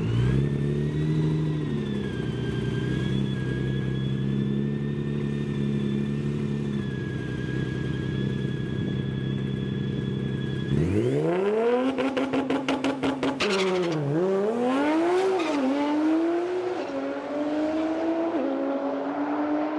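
Twin-turbo Nissan GT-R R35's V6 held at a steady rev with a high turbo whine. About eleven seconds in it launches: the revs sweep up sharply and a rapid stutter follows for a second or two. Then comes a run of upshifts, the pitch dipping and climbing again with each gear.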